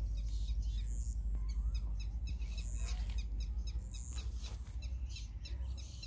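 Birds chirping with many short, high calls, over a steady low rumble.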